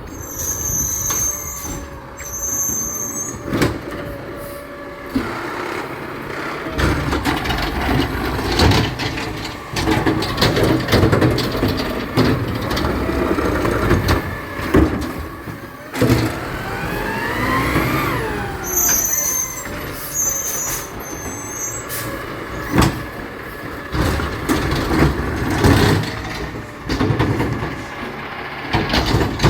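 Garbage truck at work: its diesel engine revs up and back down, with many knocks and clanks. Short high-pitched squeals come twice near the start and again about two-thirds of the way through.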